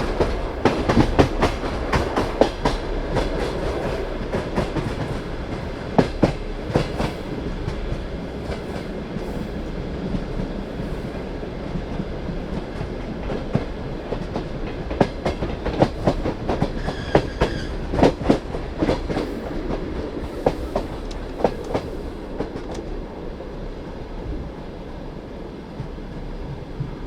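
Passenger carriage wheels clattering over rail joints under a steady rumble, the clicks coming less often as the train slows into a station. A brief high squeal from the wheels or brakes sounds a little past halfway.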